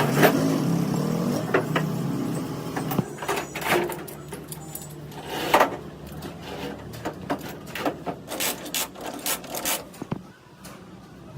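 An engine runs for the first three seconds or so, then irregular sharp metallic clinks and knocks of tools and metal parts being handled.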